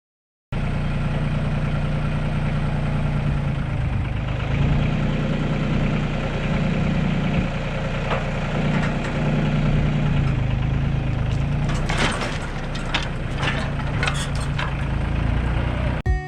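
An engine running steadily at idle, with a few sharp clicks or knocks near the end.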